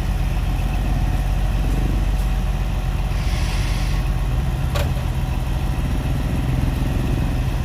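Heavy diesel engine of earthmoving equipment running steadily with a low drone, with a short hiss about three seconds in and a sharp click near the middle.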